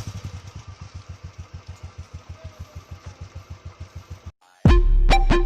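Royal Enfield Classic single-cylinder engine idling, its exhaust beating evenly at about eight thumps a second. The engine sound cuts off about four seconds in, and loud music starts near the end.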